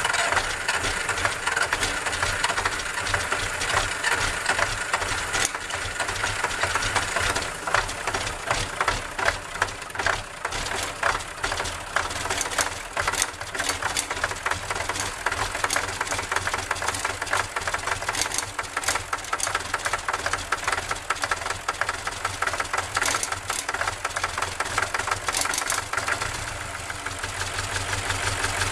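Cold-started diesel engine running with a heavy, rapid knocking clatter, settling into a steadier run near the end.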